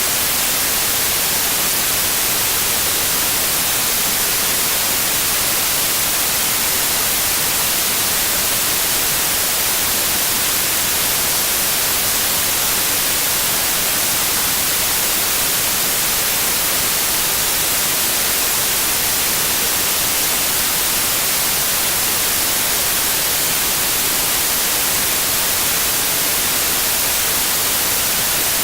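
Steady white noise: an even, unbroken hiss, strongest in the treble, with no change.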